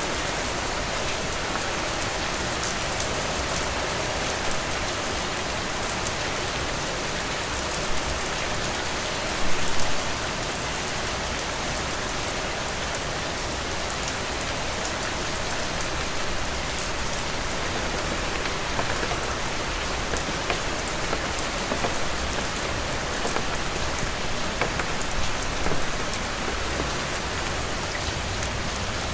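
Heavy rain falling steadily: a dense, even hiss with many sharp drop ticks. A brief louder burst comes about ten seconds in.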